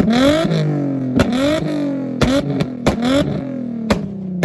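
A car engine revved hard about once a second, each rev rising quickly and falling back, with sharp exhaust pops and bangs on the overrun.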